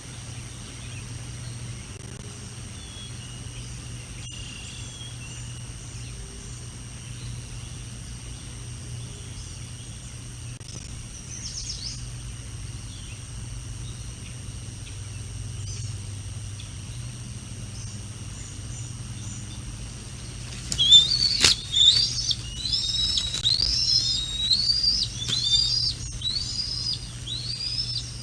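Juvenile bald eagle calling: a rapid run of loud, high, arching chirps, about one or two a second, starting about 20 seconds in. A single sharp click comes just after the calls begin, and faint scattered bird calls come before them.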